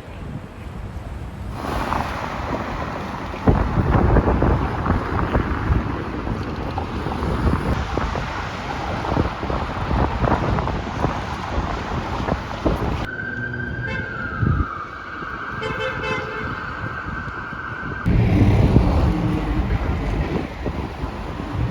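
City street traffic noise with wind rumbling on the microphone. About halfway through, a single steady horn-like tone sounds for about five seconds, then the traffic noise returns.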